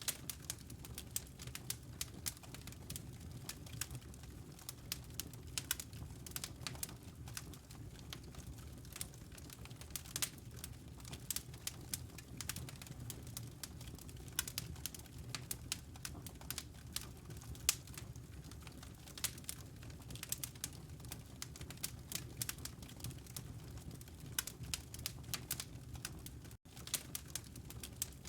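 Wood fire crackling, with frequent sharp irregular pops over a steady low rumble. The sound drops out for an instant near the end.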